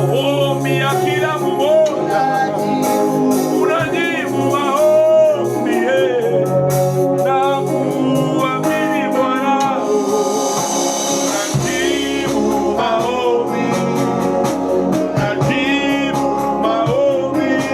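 Gospel worship song: a voice singing a melody over instrumental backing, with a deep bass line coming in about twelve seconds in.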